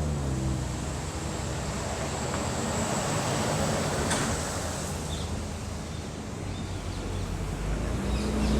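Road traffic noise: a steady rush of passing vehicles' tyres and engines. Near the end a large vehicle's engine grows louder.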